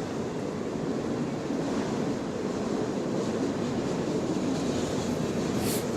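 CN freight train running past: a steady rumble of diesel locomotives and rolling cars, with faint clicking and a brief hiss near the end.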